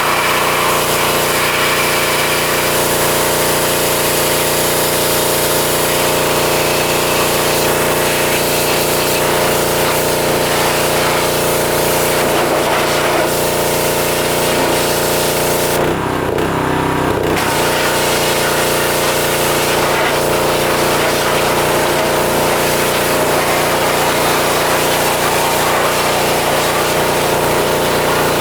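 Pressure washer running steadily, its engine hum under the hiss of the water spray. Just past the middle the spray stops for about a second and a half, then starts again, while the engine keeps running.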